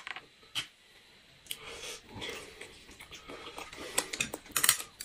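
Close-miked eating sounds: wet chewing and mouth smacking, with a few sharp clicks near the start and a cluster of clicks near the end.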